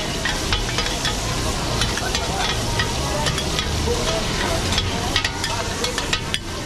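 Food frying in hot oil, a steady sizzle thick with short crackling pops.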